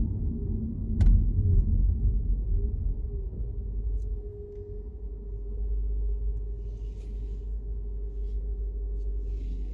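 Car driving, heard from inside the cabin: a steady low rumble of engine and road noise with a faint constant hum, and a single sharp click about a second in.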